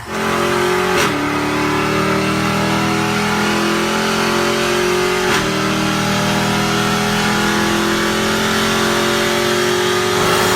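Dodge Challenger's supercharged 6.2 L Hemi V8 running hard at high, steady revs, with brief dips in pitch about a second in and again around five seconds.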